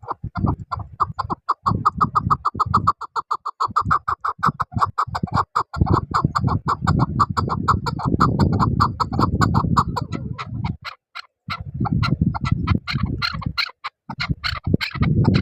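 Chukar partridge calling: a fast, even run of short clucking chuck notes, about seven a second, with a brief pause near the middle.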